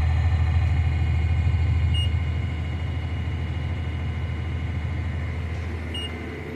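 Tractor engine running throttled up, driving the PTO-powered unloader as it empties into a truck; a steady hum that slowly fades. Two short high beeps sound about two seconds in and again about four seconds later.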